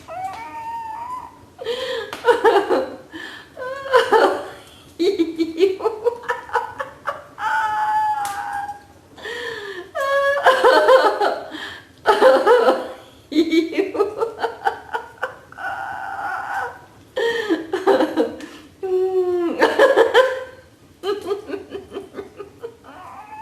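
Laughter-yoga laughter: repeated hearty bursts of laughing, each a quick ha-ha-ha run of pulses, one after another with short pauses between.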